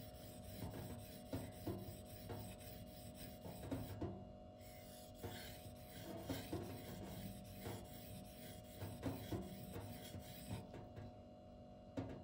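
M390 steel blade of a Twosun TS264 folding knife being stroked across a sharpening stone, many short, irregular rasping strokes. The uneven, oversized bevel toward the tip is being reworked.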